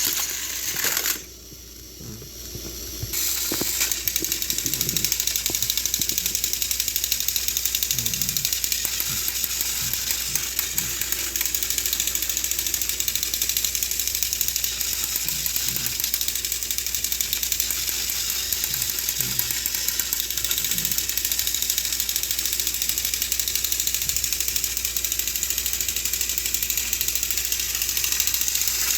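Battery-powered Trackmaster toy train engines running, their small motors and plastic gearboxes making a steady, dense clicking and rattling. Quieter for a couple of seconds near the start, then steady.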